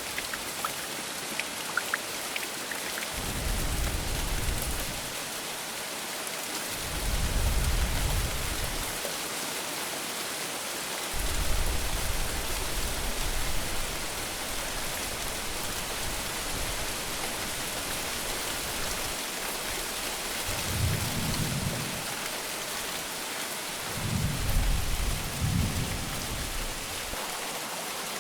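Steady heavy rain falling, with low rumbles of thunder rolling in about five times, each lasting a second or two.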